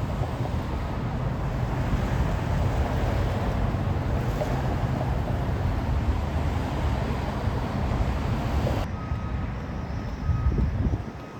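Fire truck engine running steadily as the truck reverses. Near the end, after an abrupt change in the sound, its backup alarm beeps.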